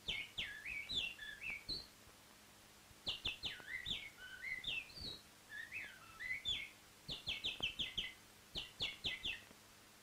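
A songbird singing in quick, varied phrases of chirps and whistles, with a short pause about two seconds in and rapid runs of repeated notes near the end.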